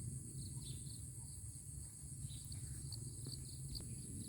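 Steady high-pitched drone of insects in a rural chorus, over a low steady rumble, with a few faint ticks near the end.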